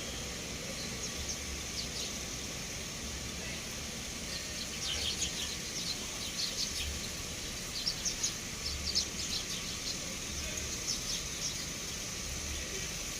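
Sparrows chirping in quick, short calls, thickest about five seconds in and again around eight to nine seconds, over a steady high hiss and a low rumble.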